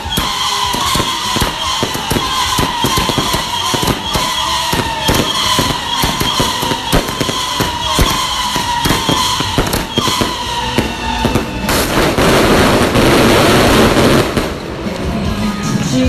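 Fireworks and firecrackers going off in a rapid, continuous string of bangs, with a falling whistling tone that repeats over and over. About twelve seconds in, a dense burst of crackling lasts for about two and a half seconds, then the bangs ease off.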